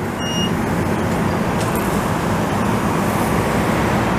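Bi-level commuter train coaches rolling past a station platform: a steady rumble of wheels on rail with a low hum underneath.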